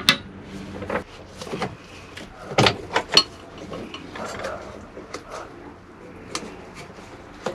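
Scattered clicks and knocks of hard parts being handled while a Raritan marine toilet is worked on to replace its joker valve, with a cluster of sharper knocks a little under halfway through.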